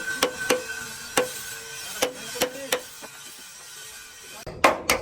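Hammer blows at an irregular pace, a few sharp knocks a second, ending with two louder ringing strikes near the end.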